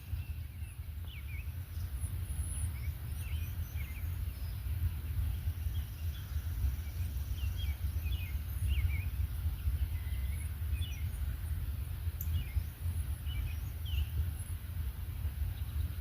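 Songbirds chirping and singing in many short, high notes, over a steady low rumble.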